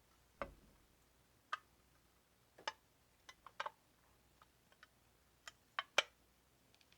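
Irregular light clicks and taps of small hard objects, about a dozen over several seconds with the loudest near the end.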